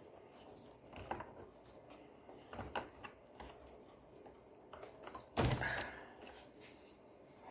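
Scattered clicks and knocks from handling vacuum cleaner parts and tape during reassembly, with one louder, longer scraping noise about five and a half seconds in.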